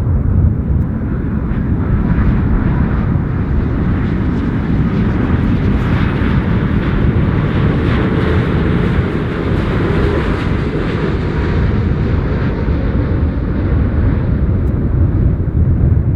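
Arriving jet airliner on approach passing over: a loud, steady rush of engine noise whose hissing upper part swells to a peak about halfway through and then fades away.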